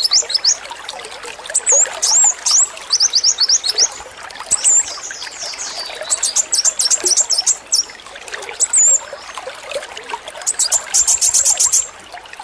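Male brown-throated sunbird singing in bursts of very fast, high-pitched rattling trills, the rapid-fire 'AK-47' style, with a few short whistled slurs between them. A steady trickle of running water continues underneath.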